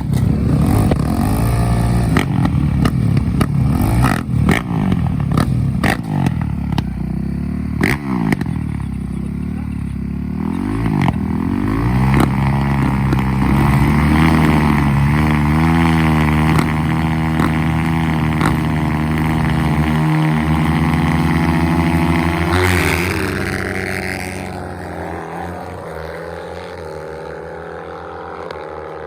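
450cc four-stroke dirt bike engines revving hard through the gears in a race, with many sharp clattering clicks in the first ten seconds. The engines hold a steady high pitch for several seconds, rise once more in a rev, then fade away over the last few seconds.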